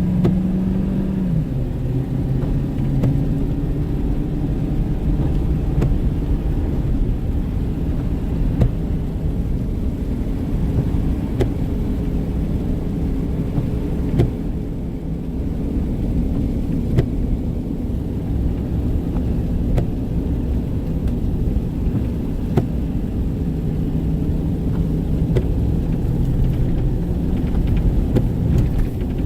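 Car driving steadily: a continuous engine hum and low road rumble, with a few faint clicks.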